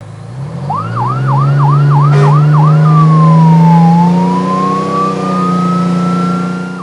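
Fire-engine siren: a quick run of about six rising yelps, then one slow falling-and-rising wail. Under it runs a steady engine drone that climbs in pitch at the start.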